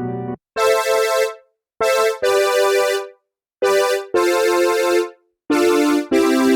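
Roland System 8 synthesizer playing a preset: a sustained low pad cuts off just after the start, then a series of bright chords sound, each held for under a second with short silences between them.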